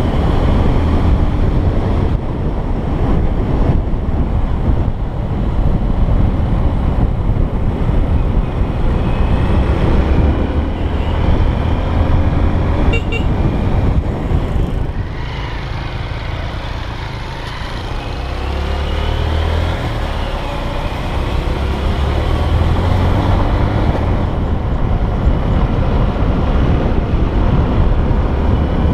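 Honda XR125's single-cylinder engine running while riding, with heavy wind rumble on the microphone. The engine pitch rises and falls with speed, and the noise eases off for a few seconds around the middle.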